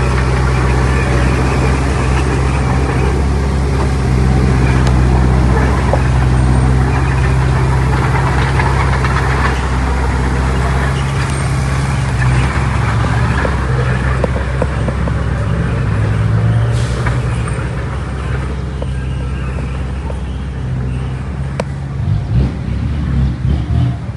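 Heavy diesel engine of earthmoving machinery running steadily under a loud, noisy rumble. The engine note shifts about eleven seconds in and turns uneven near the end.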